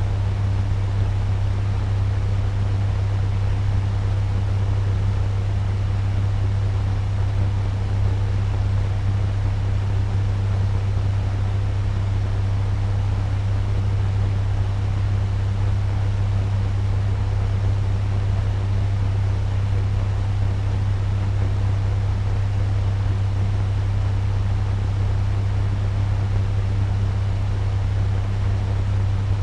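Turbo fan running steadily at medium speed: an even rush of moving air over a constant low motor hum.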